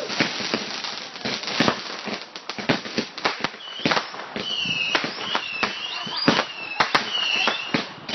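Fireworks going off in a rapid run of sharp bangs and crackles. From about halfway through, high whistles that bend in pitch sound among the bangs.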